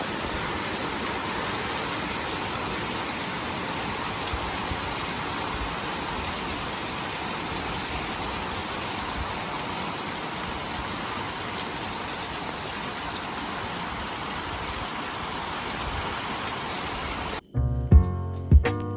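Steady rain falling, an even hiss without a break. Near the end it cuts off suddenly and music with a strong beat starts.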